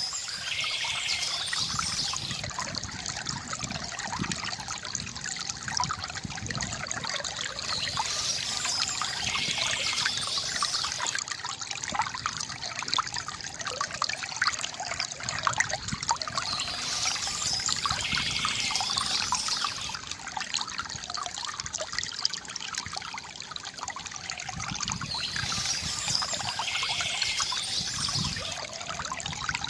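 Water from a bamboo fountain trickling and splashing, a steady gurgling flow. A brighter, higher-pitched patch recurs about every nine seconds.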